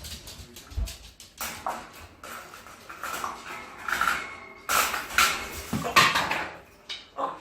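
African grey parrot making a string of short, harsh calls and clicks, several of them mimicked speech that its owner takes for a swear word ('off').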